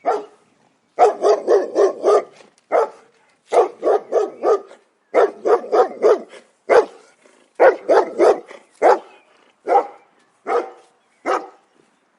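Dog barking repeatedly, in quick runs of several barks at first, thinning to single barks about a second apart near the end.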